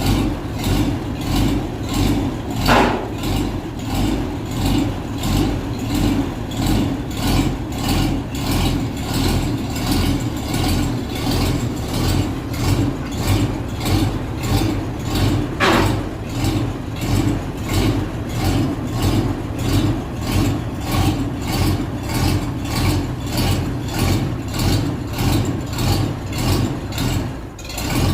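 Vintage tractor engine running steadily with a slow, even firing beat of about two pulses a second. Two short sharp sounds cut through it, about 3 and 16 seconds in.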